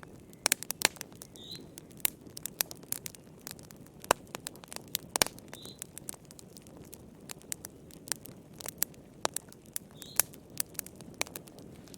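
Wood fire crackling in a fireplace: irregular sharp pops and snaps, a few of them loud, over a steady low rush of burning. A faint short high chirp sounds now and then, about four seconds apart.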